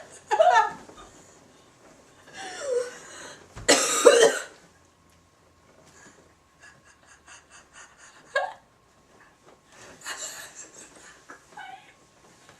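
Coughing and laughing in short bursts with pauses between, the loudest about four seconds in. Faint quick clicks in the middle.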